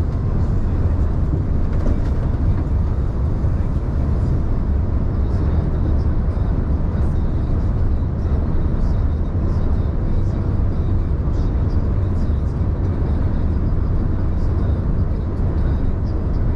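Scania heavy vehicle's engine and road noise while driving: a steady, deep rumble that holds even, with faint light ticks over it.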